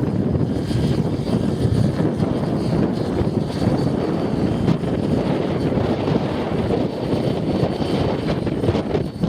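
Strong wind buffeting the microphone in gusts, with the electric motor and rotor of a T-Rex 600E Pro RC helicopter running under it and a faint high whine.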